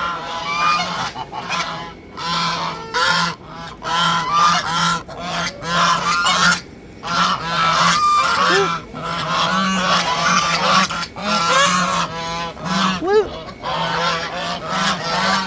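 A flock of domestic geese honking loudly, many short calls overlapping with hardly a break, as they crowd in for food scraps.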